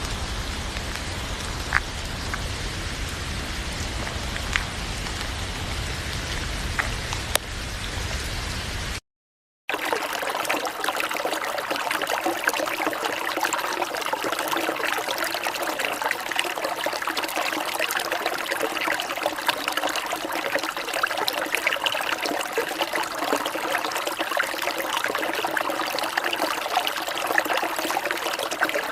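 Steady rain falling, with scattered sharp drip ticks, for about nine seconds; then the sound cuts out for half a second and gives way to water trickling and running steadily.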